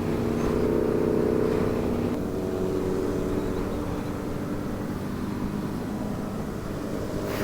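Sport motorcycle engine running at steady revs while riding, its note dropping a step about two seconds in and then holding steady.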